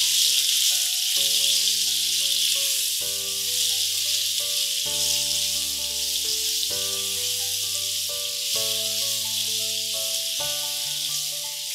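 Boiled bitter gourd pieces and spices in hot mustard oil sizzling steadily in a nonstick frying pan as they are stirred with a silicone spatula. Background music of sustained chords, changing every second or two, sits under the hiss.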